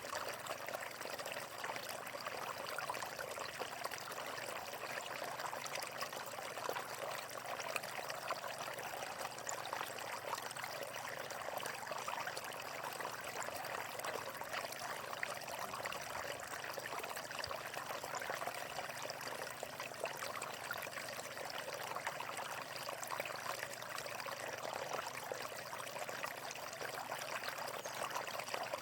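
Water flowing steadily over rocks in a stream, an even splashing and trickling with no pauses.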